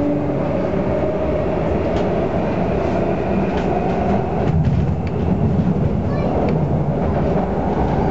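MTR Tung Chung line A-Train (Adtranz-CAF electric multiple unit) running, with steady wheel-on-rail rumble and a faint traction-motor whine that rises slowly in pitch over the first few seconds as the train gathers speed.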